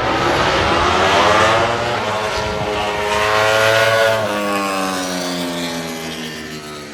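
A MotoGP racing motorcycle engine at high revs going by, its pitch climbing through the gears. About four seconds in the pitch drops sharply, and the sound then fades away.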